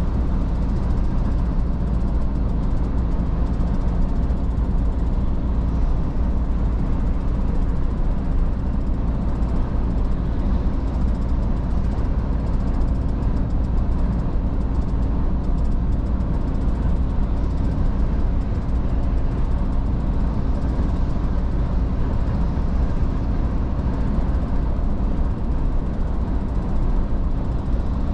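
Iveco S-Way truck driving at a steady speed: a constant low engine and road rumble inside the cab, with no change in pitch or level.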